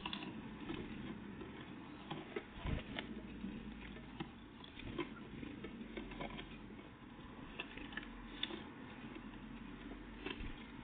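Small birds, great tits and blue tits, at a feeder: irregular light ticks and taps of pecking and landing, with a low thud a little under three seconds in.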